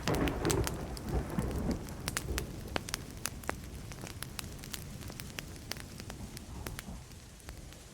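Burning wood fire crackling with many sharp pops, under a rumble of distant thunder in the first couple of seconds that fades away.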